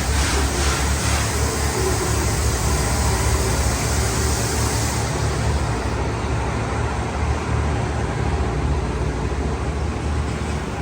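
Diesel railcar running, a steady low engine drone under a broad rush of noise that eases in the highs about five seconds in.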